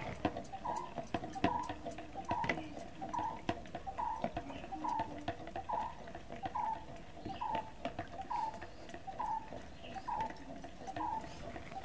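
A bird calling: one short falling note, repeated at a very even pace about one and a half times a second, with faint scattered clicks.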